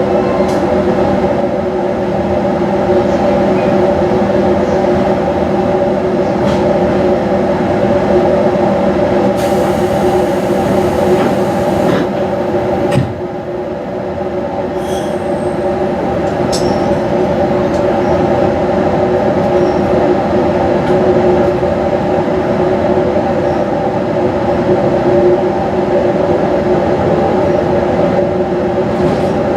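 JR East 215 series double-decker electric train heard from inside while running along the line: a steady hum of several held tones over rumble from the wheels on the rails. About thirteen seconds in there is a click and the noise dips briefly before building back.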